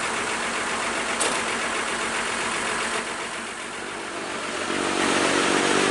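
Heavy truck's diesel engine running amid road noise, growing louder about four and a half seconds in; a short click about a second in.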